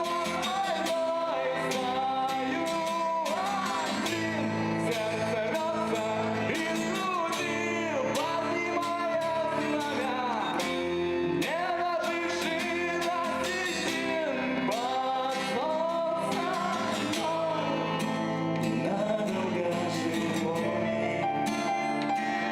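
A song: a voice singing over guitar accompaniment, at a steady level, with the singing fading out near the end.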